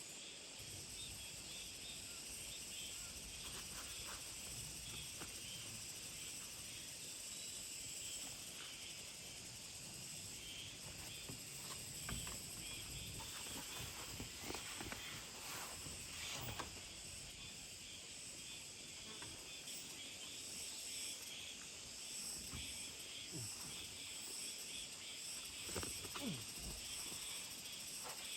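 Steady high-pitched chorus of summer insects, with scattered faint knocks and rustles, a few of them louder around the middle and near the end.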